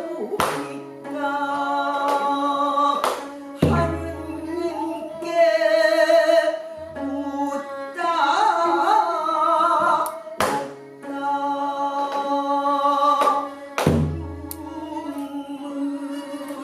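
Pansori singing with Korean traditional accompaniment: a voice holding long wavering notes over sustained instrumental tones, punctuated by sharp strokes of the buk barrel drum. Two of the strokes, about a third of the way in and near the end, are deep and ring on.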